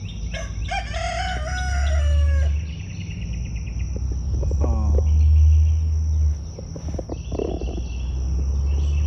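A rooster crowing once near the start, one long call of about two seconds, over a steady high chirring of crickets.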